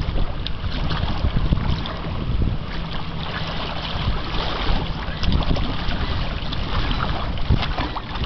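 Wind buffeting the microphone: a gusting, rumbling noise that rises and falls without a break.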